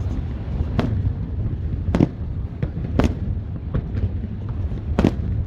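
Aerial firework shells bursting in a series of sharp bangs, four loud ones about a second apart with fainter pops between them, over a steady low rumble.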